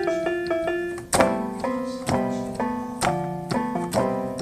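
Keyboard playing piano-sounding chords and melody notes in an instrumental break of a song, with sharp percussive hits about a second in and again about three seconds in.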